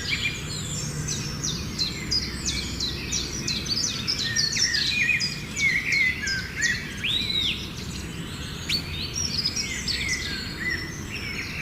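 Small songbirds chirping and singing: a dense run of quick, high notes and short calls, over a steady low background rumble.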